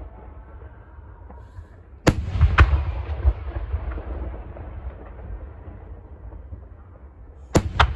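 Aerial fireworks shells bursting: a sharp bang about two seconds in, a second half a second later, then a rolling rumble, and two more sharp cracks near the end. Low booming from further bursts and their echoes sounds under it all.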